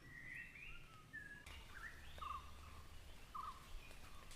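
Faint forest birdsong: several birds calling, with whistled phrases that step upward in pitch and a short note repeated about once a second.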